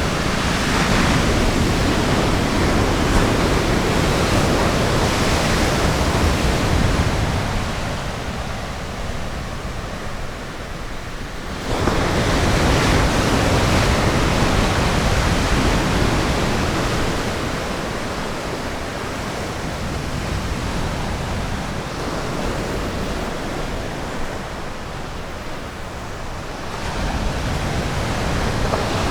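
Ocean surf breaking on a beach: a continuous rush of waves that swells and ebbs, with a sudden surge about twelve seconds in and another rise near the end.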